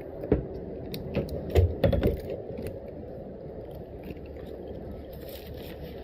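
A quick run of small clicks and knocks in the first two seconds, like hard objects being handled and bumped together, then a steady low background.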